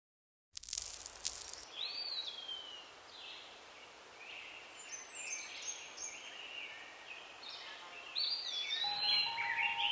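Several wild birds calling and chirping, a mix of whistled notes, some sliding down in pitch, growing busier near the end. A brief rush of noise opens the sound, and two steady tones come in under the birds near the end.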